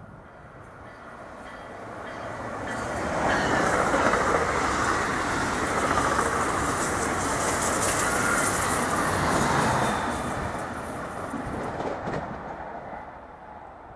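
NJ Transit multilevel commuter train passing through the station at speed, with steady wheel-and-rail noise. The sound builds as the cab car approaches, stays loud for about seven seconds as the coaches go by, then fades.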